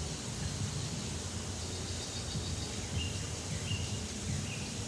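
Wind buffeting the microphone outdoors, a steady uneven low rumble, with two or three faint short high notes about three seconds in.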